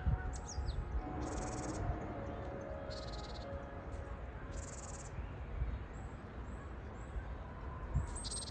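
Wild birds calling in woodland: a high buzzy note repeated about every one and a half to two seconds, with a few short high chirps, over a low rumble.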